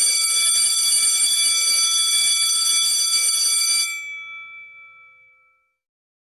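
Electric alarm bell ringing continuously, its hammer rattling fast against the gong, for about four seconds. It then stops and the gong rings away over the next second and a half.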